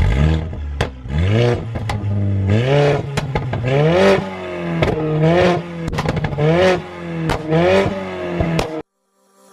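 Mercedes A45 AMG's turbocharged 2.0-litre four-cylinder, running with a decat downpipe and a stage 2 tune, revved in about seven quick blips with sharp exhaust cracks and pops between them. The sound cuts off suddenly near the end.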